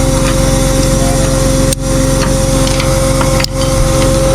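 Tow truck engine running steadily with a constant hum, dipping briefly twice.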